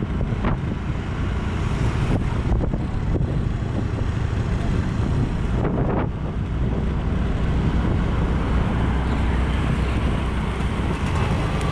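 Wind buffeting an action camera's microphone during a ride, over the steady rumble of the vehicle and road.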